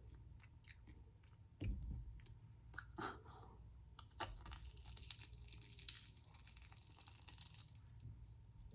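Close-miked chewing of crunchy fried food, with faint crunches and mouth clicks. There is a low thump about a second and a half in.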